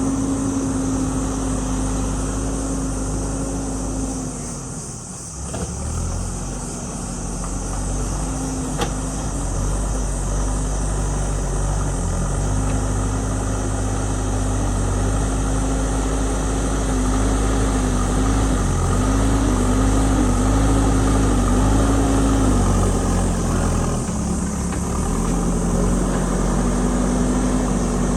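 JCB ecoXcellence backhoe loader's diesel engine running steadily under work. Its pitch sags about five seconds in and again near the end, and wavers in between as the load changes.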